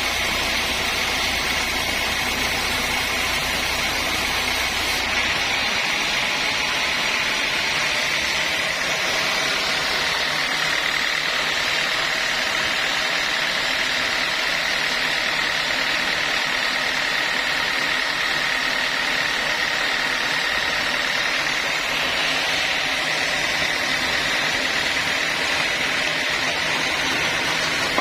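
Sawmill saw running steadily through a mahogany log: a continuous whine over machine noise. A low rumble underneath drops away about six seconds in.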